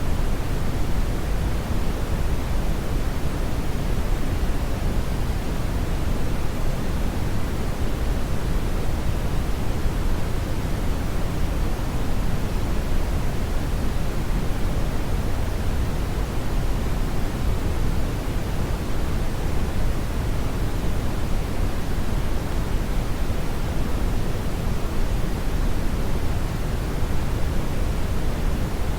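Steady synthetic brown noise: a deep, even rumble of hiss with most of its weight in the bass and little in the treble, unchanging throughout.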